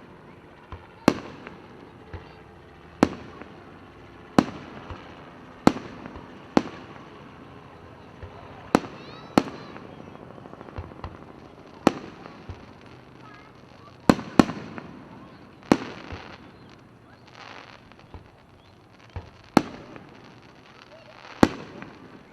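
Festival fireworks display: aerial shells bursting one after another, a sharp bang every second or two, each trailing off in a short rumble, with a brief lull about three-quarters of the way through.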